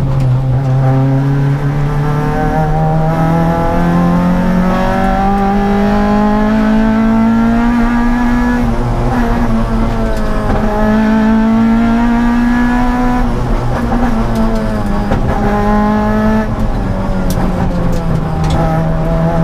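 Honda Civic rally car's B16 four-cylinder engine driven hard, heard from inside the cabin: long, slowly rising pulls in pitch, broken several times by sudden drops as the driver shifts gear or lifts.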